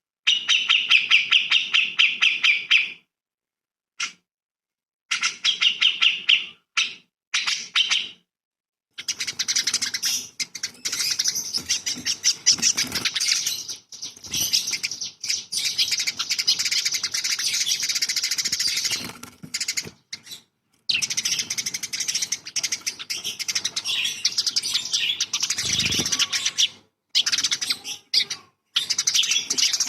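A songbird singing fast, dense trills and chattering phrases, high-pitched, in long runs broken by several short pauses.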